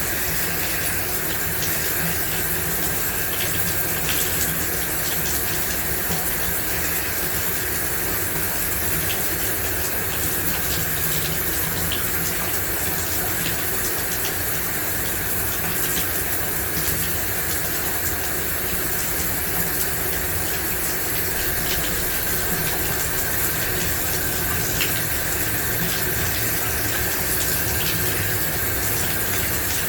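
Shower running steadily, water spraying and splashing with a constant hiss and small scattered droplet ticks.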